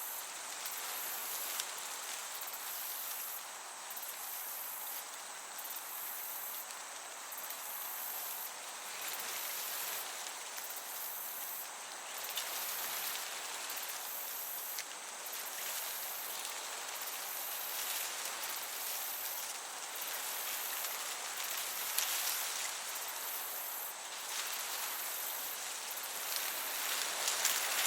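Crickets chirping in a high-pitched trill broken by short gaps every second or so, over a steady hiss of gentle breeze through a meadow.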